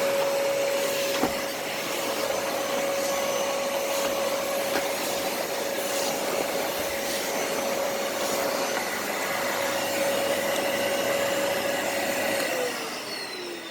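Numatic James tub vacuum cleaner running steadily with a constant whine over its suction noise, with a single click about a second in. Near the end the motor winds down, its whine falling in pitch as it slows.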